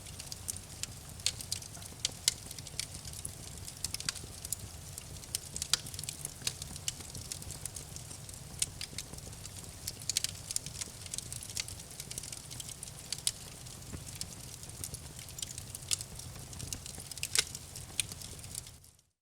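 Campfire crackling: irregular sharp pops and snaps of burning wood over a steady low rumble of the flames. The sound cuts out for a moment near the end.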